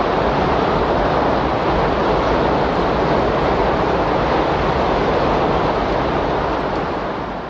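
Recorded windstorm ambience: a steady rush of wind noise that begins fading out near the end.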